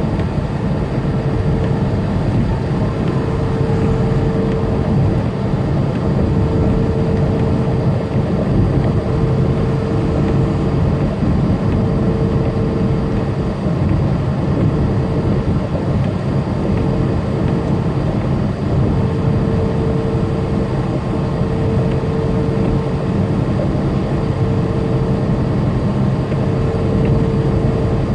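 Tractor-trailer running down the interstate, heard from inside the cab: steady diesel engine and road noise, with a mid-pitched hum that fades in and out every few seconds.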